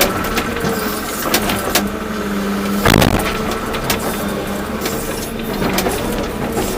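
Volvo EC240B excavator's diesel engine running steadily as the machine works, with scattered knocks and clanks, the loudest about three seconds in.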